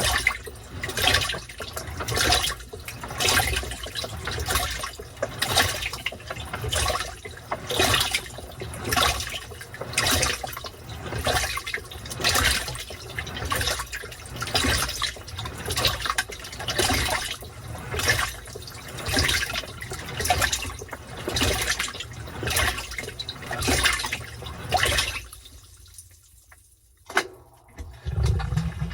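Washing machine agitating a load in water: rhythmic sloshing and churning surges, about one every second. The agitation stops about 25 seconds in, and after a click a low motor hum starts near the end.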